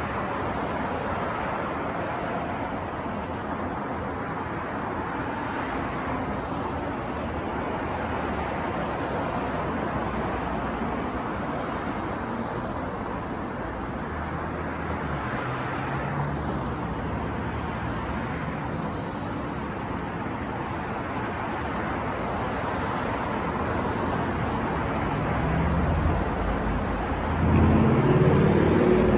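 City street traffic: a steady wash of passing cars, with a heavier vehicle's engine rumbling louder near the end.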